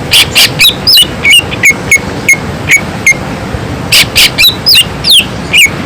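Cucak ijo (green leafbird) singing a fast, loud run of short, sharp whistled notes, about three a second, many of them sweeping quickly in pitch.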